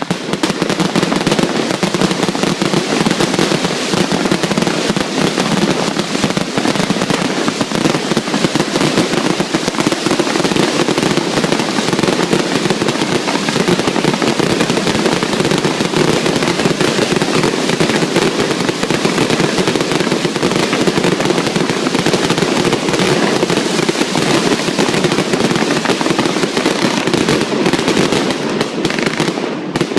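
Fireworks display: a loud, dense, unbroken barrage of bangs and crackle, many reports a second with no pause.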